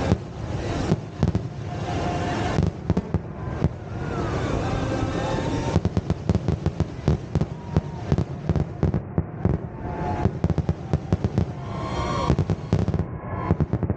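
Fireworks display: a continuous barrage of shell bursts and crackling, with the bangs coming thicker and faster from about halfway through.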